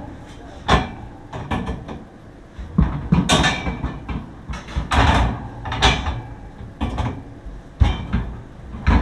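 A run of irregular knocks and clatters, about a dozen sharp hits a second or less apart, like things being handled and bumped together.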